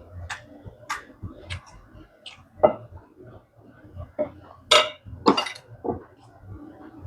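Spoon and chopsticks clinking and scraping against bowls while eating, a run of short sharp clinks with a few louder ones near the middle.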